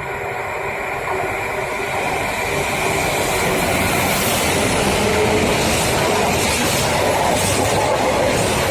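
Freight train approaching and getting steadily louder: a rising rumble of wheels on rail, with rhythmic clacks from the wheels passing over rail joints in the second half.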